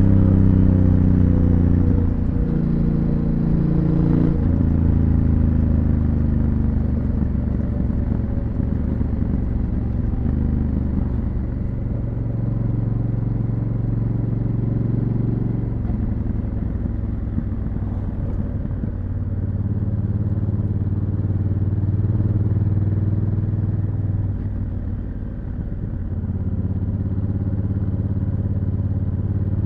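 Honda Africa Twin CRF1000L's parallel-twin engine running through its stock exhaust while riding, its pitch falling over the first few seconds and then rising and falling with the throttle, with a short dip in level near the end.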